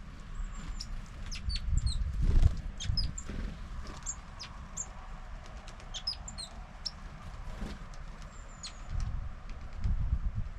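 Small birds at a feeder: many short, high chirps and call notes scattered throughout, over low wing flutters and soft thumps of birds landing and taking off.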